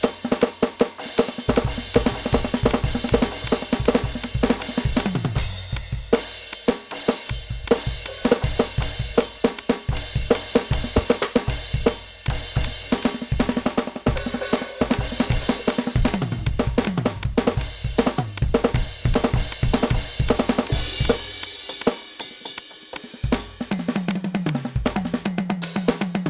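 NUX DM-8 electronic drum kit played through its sound module: a steady groove of kick, snare, hi-hat and cymbals, with fills that run down the toms every several seconds.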